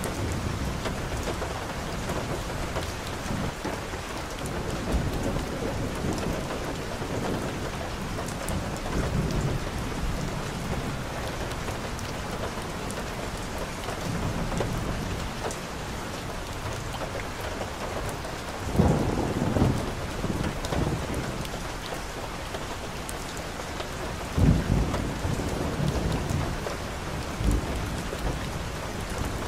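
Steady rain falling on a street and on wet leaves, an even hiss of drops. Short low rumbles rise out of it about two-thirds of the way through and twice more near the end.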